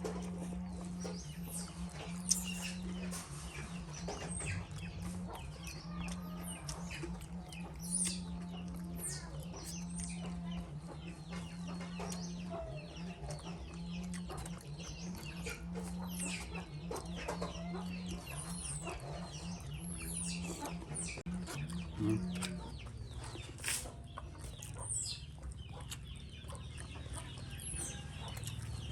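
Many short, high-pitched falling chirps and squeaks from animals, over a steady low hum that stops about three-quarters of the way through.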